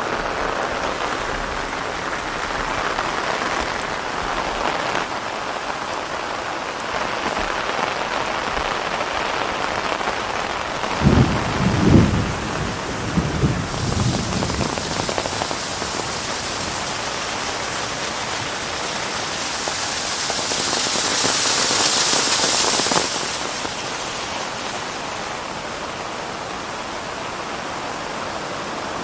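Steady rain falling on forest foliage. A few low rumbles or thumps about eleven to fourteen seconds in, and the hiss of the rain swells and eases off again about two-thirds of the way through.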